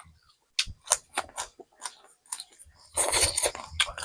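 Close-miked chewing: scattered wet mouth clicks and smacks, then about three seconds in a louder, denser stretch of chewing.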